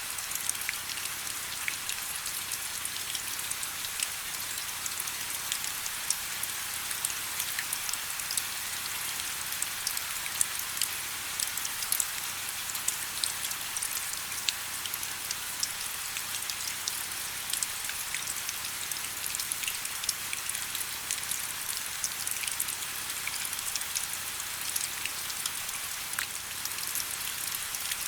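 Steady rain: an even hiss with many small, sharp drop ticks scattered all through it.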